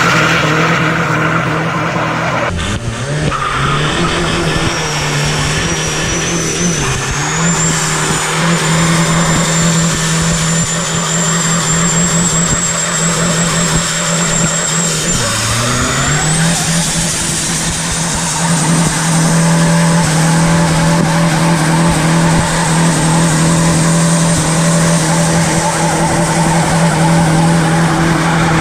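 Twin-turbo TDI diesel engine held at high, steady revs during a long burnout, with tyres squealing and skidding over a high turbo whistle. The revs dip and climb back twice, about two seconds in and again at about fifteen seconds, and the whistle steps up in pitch shortly after the second dip.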